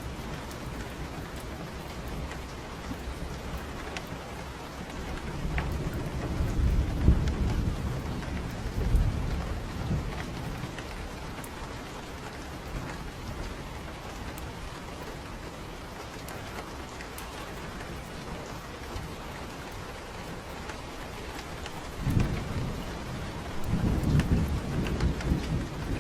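Steady rain falling, with two low rolls of thunder: one building about five seconds in and lasting several seconds, another starting near the end.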